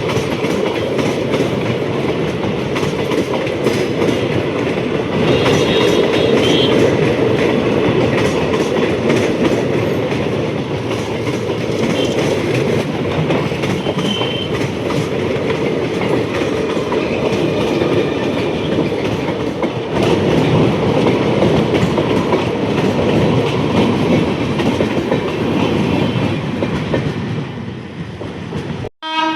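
A train running past on the rails, a steady loud rumble of wheels with the clickety-clack of rail joints. It cuts off abruptly near the end.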